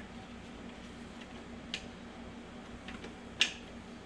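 A few light metallic clicks as transmission gear-shaft parts are handled and fitted, the sharpest about three and a half seconds in, over a faint steady hum.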